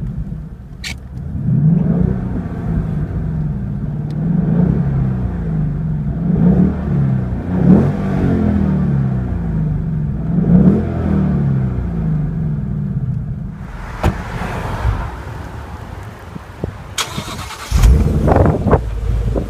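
2015 Ford Mustang GT's 5.0-litre V8 running at idle and being revved in repeated blips, its pitch rising and falling again and again. A few sharp knocks come near the end.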